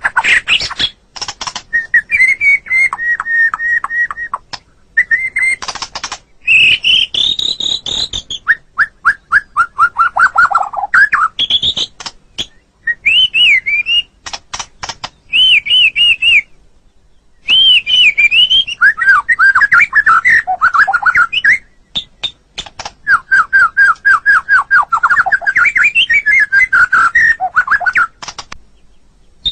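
White-rumped shama (murai batu) singing a long, varied song: loud whistled phrases, sliding notes and rapid trills mixed with fast dry clicking notes. Brief pauses fall between phrases, the longest about a second, a little past the middle.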